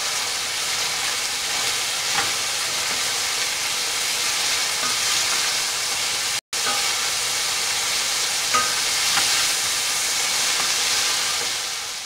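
Diced green bell peppers and ground beef sizzling steadily in a stainless steel pan, stirred with a plastic spoon that scrapes against the pan now and then. The sound breaks off for an instant about halfway through.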